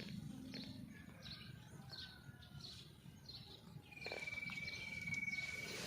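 Birds chirping faintly in short high notes, repeating about every half second, with a thin steady high trill coming in about four seconds in.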